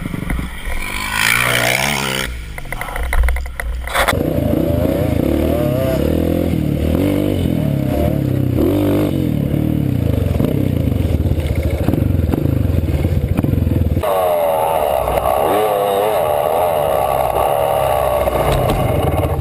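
Dirt bike engine running and revving, its pitch rising and falling as the throttle is worked. There is a sharp clatter about three seconds in, and the engine sound changes abruptly about four seconds in and again near fourteen seconds.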